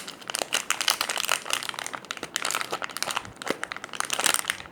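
Crinkling and rustling from handling a panda bun squishy toy, a steady run of small irregular crackles.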